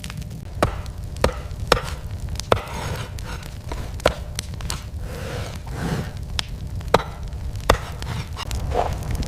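A series of sharp knocks or chops at an uneven pace, roughly one or two a second, over a steady low rumble.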